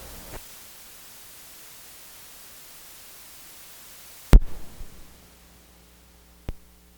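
Steady hiss of recording noise. About four seconds in comes a sharp, loud click with a few softer knocks after it. After it the hiss drops and a low mains hum is left, with one more click near the end.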